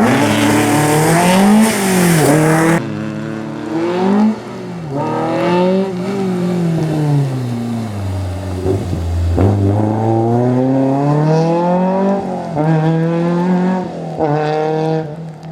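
Peugeot 205 GTI rally car's four-cylinder engine driven hard, its revs climbing and dropping again and again as it accelerates, shifts and slows. The sound changes abruptly about three seconds in.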